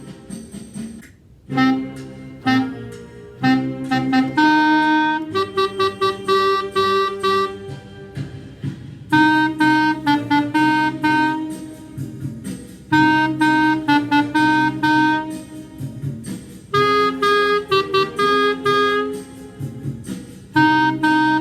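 Clarinet playing a blues melody in short, repeated notes grouped into phrases with brief breaks between them.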